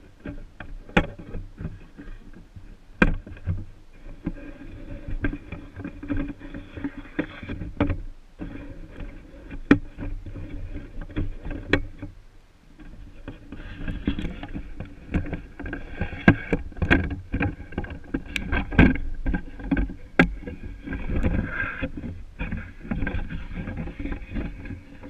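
Camera and tripod handling noise close to the microphone: repeated knocks, clicks and scraping with low rumbling as the camera is set up.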